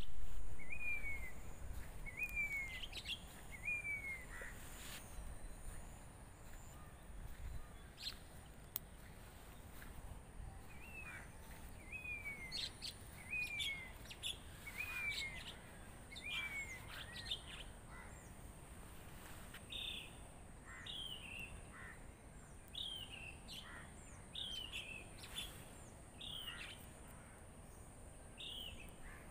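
Birds calling in bouts, a series of short, downward-slurred calls repeated about once a second, with some sharper chirps between them. A faint steady high hiss lies underneath.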